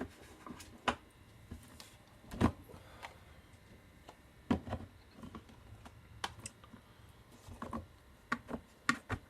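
Scattered knocks, clicks and clatters of tools and small items being picked up and set down while someone rummages through a workshop.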